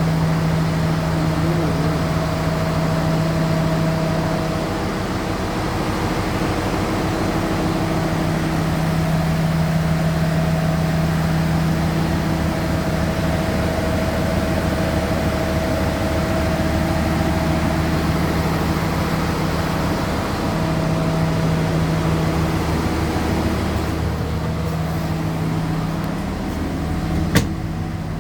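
Vehicle engine running steadily with a continuous hum and road or track noise. A single sharp click comes near the end.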